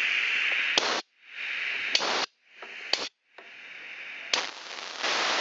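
Pressurised spray hissing into the idle-circuit passages of a Briggs & Stratton mower carburetor in four bursts, each cut off sharply, to clean out the clogged idle jet.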